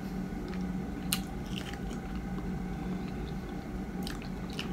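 Close-miked chewing of a bite of small ripe mango, mouth closed, with a few short clicks, the sharpest about a second in. A steady low hum runs underneath.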